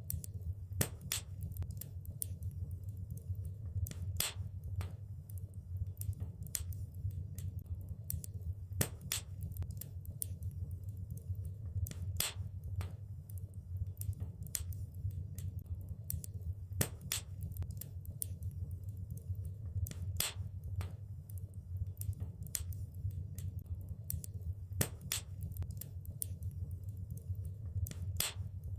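Wood fire crackling in a fireplace: irregular sharp pops and snaps, a few louder than the rest, over a steady low rumble of flames.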